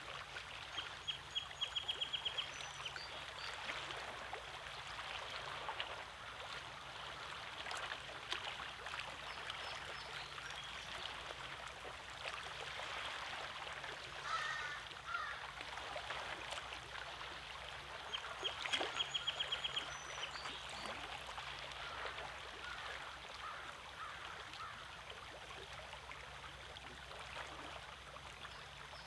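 Small waves lapping and trickling among the rocks of a lakeshore. Twice there is a quick run of evenly spaced high bird notes, and midway a few short bird calls.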